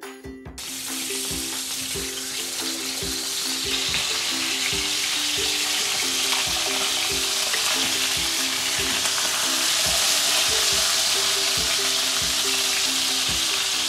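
Burger patties frying in oil in a pan, a steady sizzle that starts about half a second in, over soft background music with a plucked melody.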